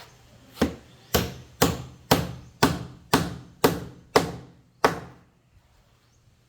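Hammer driving a nail into a wooden board: nine sharp strikes at about two a second, each with a short ring, stopping about five seconds in.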